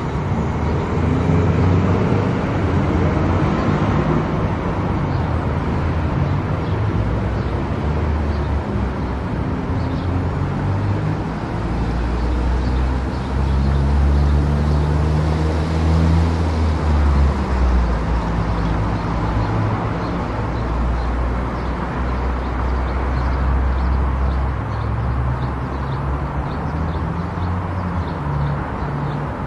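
A car driving at highway speed: a steady rush of tyre and road noise over a low engine drone, whose hum shifts in pitch and grows stronger for a few seconds in the middle.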